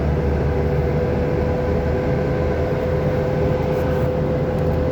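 Steady rumble of a vehicle driving, with low road and wind noise and a constant hum.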